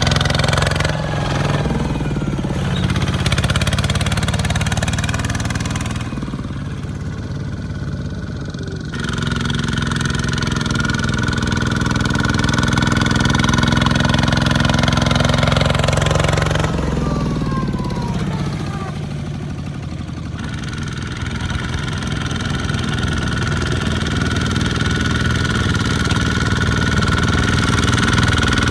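Small tractor engines running, their speed rising and falling as they work, with the engine note easing off twice along the way.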